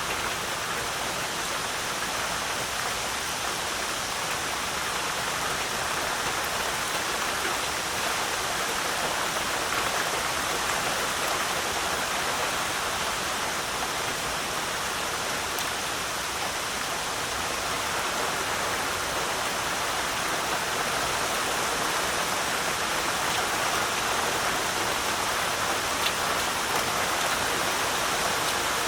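Heavy rain falling steadily: a dense, even hiss of rain on leaves and ground that does not change.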